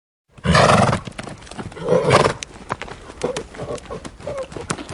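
A horse calls out loudly twice, about half a second in and again at about two seconds, with hooves clopping on hard ground throughout.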